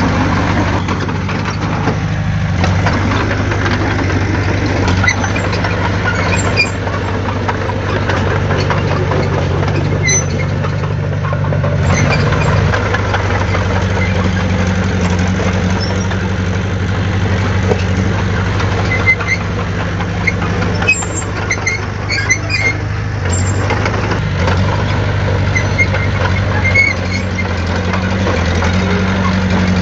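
Heavy diesel engine of earthmoving machinery running steadily. Its pitch shifts a little about twelve seconds in and again near twenty-three seconds, and faint high squeaks come now and then.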